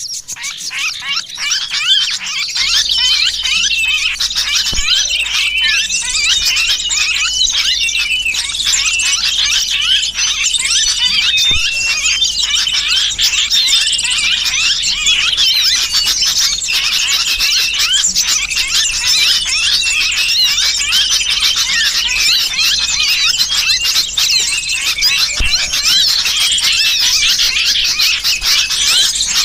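Bird-lure call recording: a dense, unbroken chorus of many small birds' chirps and squeals, mixed with the distress calls of a pinched sooty-headed bulbul, used to draw wild birds in.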